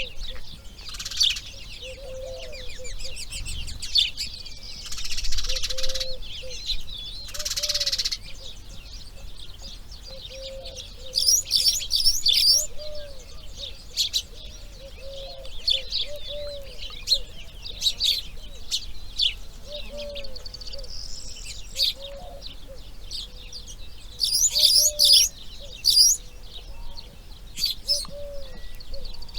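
Outdoor birdsong: several small birds chirp and trill in quick high notes, with a low cooing note repeating every second or two underneath. Two brief rushing sounds come about five and eight seconds in.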